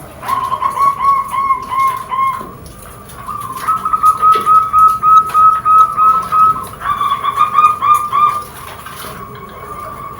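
Zebra dove (perkutut) cooing: fast runs of short, repeated notes, in three runs with brief pauses about two and a half seconds and eight seconds in.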